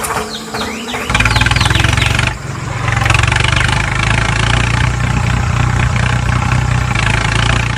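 An engine starts about a second in and then runs steadily at idle with a fast, even pulse, dipping briefly about two seconds in.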